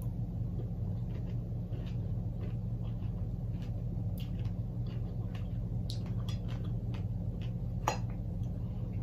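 Close-miked chewing and mouth sounds of eating fresh fruit, mainly strawberries, with a few small clicks of a metal fork against a plate, one a little louder near the end, over a steady low hum.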